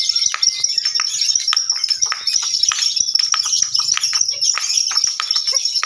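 Lovebirds chattering in a continuous stream of rapid, shrill chirps: the long, unbroken 'ngekek' song that contest lovebirds are judged on.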